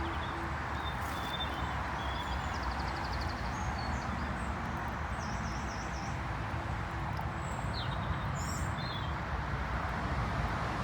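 Steady outdoor background noise with faint birdsong over it: a short trill and a few scattered chirps.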